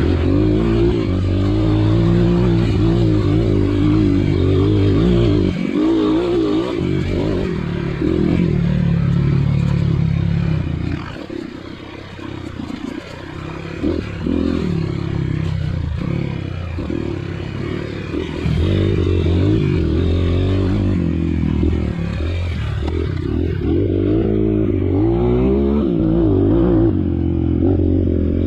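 Trail motorcycle engine running and revving under constantly changing throttle, with some clatter and scraping. It eases off to a lower, quieter running for a few seconds around the middle, then picks up again.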